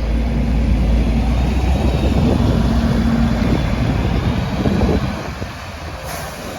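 Optare Solo SR single-decker bus's engine running loudly as it pulls away, a low rumble with a steady hum that fades after about five seconds as the bus moves off.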